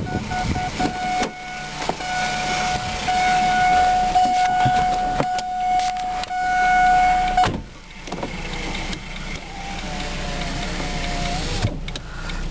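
An electric motor whine inside a car, most likely a power window motor: one steady whine that stops about seven and a half seconds in, then a shorter wavering whine near the end, among clicks and knocks.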